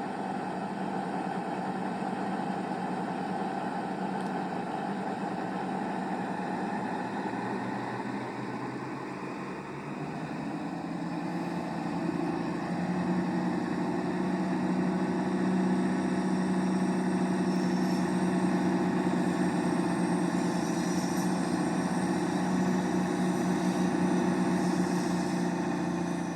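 Diesel engines of two coupled CrossCountry Class 220 Voyager units running at the platform as the train gets ready to depart. The drone steps up in level and fullness about ten to twelve seconds in, then holds steady.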